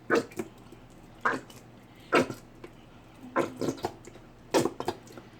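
Plastic squeeze bottle of barbecue sauce being squeezed over chicken, sputtering and squelching in short bursts about once a second, some of them in quick pairs.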